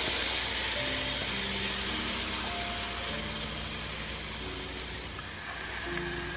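Freshly blended spice paste of garlic, shallots, ginger and candlenuts sizzling as it fries in hot oil in a frying pan, a loud steady hiss that eases off slightly as the paste settles.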